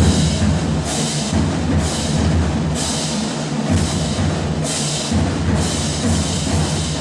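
Drum-heavy band music: a steady low drum beat with a cymbal-like crash about once a second.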